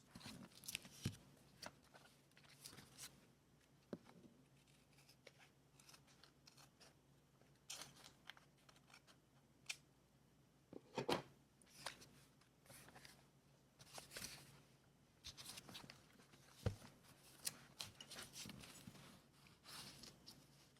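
Quiet, scattered crisp paper sounds of journaling craft work: paper being cut, torn and handled, with short irregular rustles and clicks.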